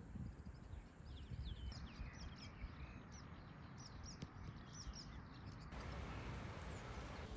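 Small birds chirping repeatedly in short, falling notes over a low wind rumble. About six seconds in, a steady hiss takes over.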